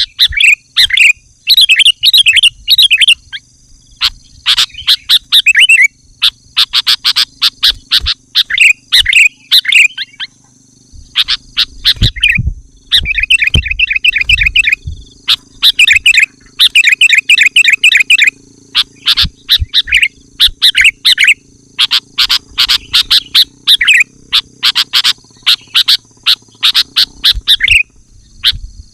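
Sooty-headed bulbul singing loudly and without pause, short phrases of quick bubbly chirps repeated one after another with brief gaps. A faint steady high tone runs underneath.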